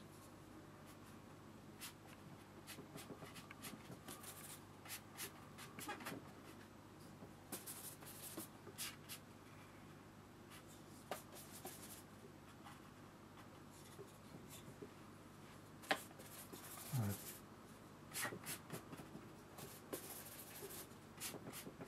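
A watercolour brush stroking and dabbing on paper and palette: faint, scratchy, irregular brushing with a few small clicks.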